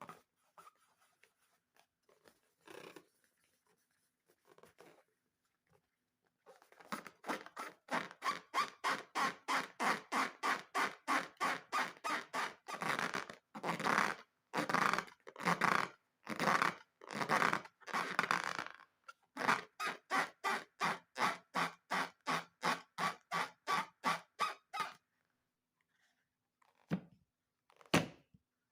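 Slime being squished by hand in a quick, even rhythm, about three wet squelches a second, starting several seconds in and stopping a few seconds before the end.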